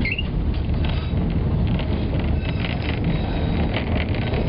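White Pass and Yukon Route narrow-gauge train running, heard from aboard a passenger coach: a steady low rumble with scattered clicks and rattles, and a brief high squeak right at the start.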